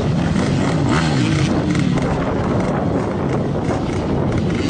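Motocross dirt bike engines racing, their pitch repeatedly rising and falling as they rev up and back off.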